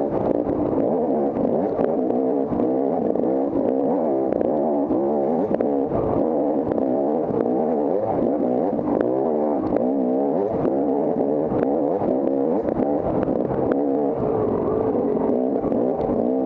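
Off-road racing motorcycle engine revving up and down continuously as the bike is ridden hard over rough trail, its pitch rising and falling every second or so, with scattered knocks and clatter.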